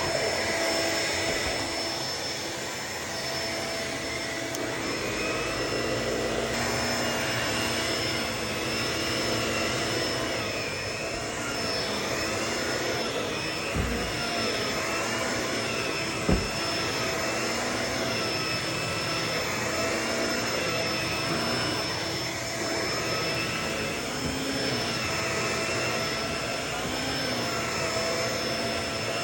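Vacuum cleaner running continuously, its motor pitch wavering up and down every second or so as it is pushed back and forth. Two short thumps come about halfway through.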